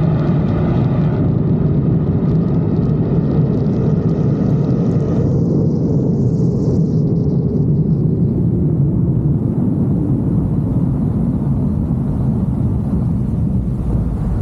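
Dodge Charger's 5.7 Hemi V8 and road noise, a loud steady low rumble at speed; its higher tones fade out about five seconds in.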